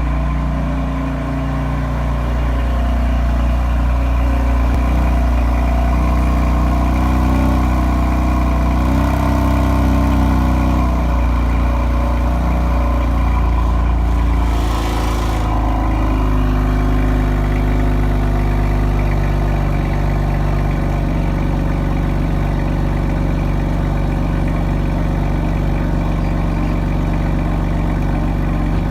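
BMW M3 F80's twin-turbo inline-six idling through its M Performance exhaust after a cold start. The idle is busier in the first half and settles steadier about halfway through.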